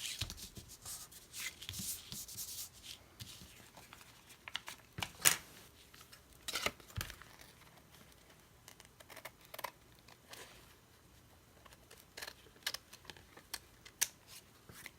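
Paper being handled and rubbed down by hand on a collage page: a scratchy rubbing for the first few seconds, then scattered light clicks and snips.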